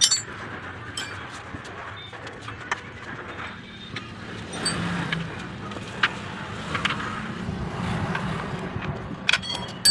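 Scattered sharp metallic clinks and taps of hand tools at work on a car's gearbox, over a steady low background rumble of vehicles.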